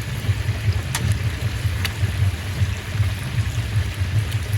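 A steady low rumble with a hiss above it, and a couple of faint clicks about one and two seconds in.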